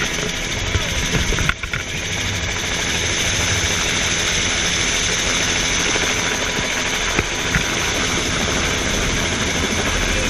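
Helicopter turbine engine and rotor running steadily: a continuous high whine over a broad rumble, with a brief drop in level about one and a half seconds in.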